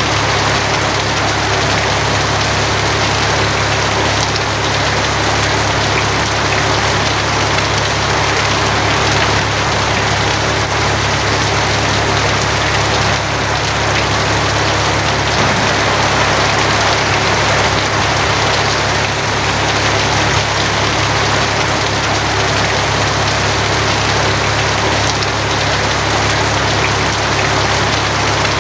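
Steady heavy rain drumming on a tin roof, an even hiss with a constant low rumble underneath.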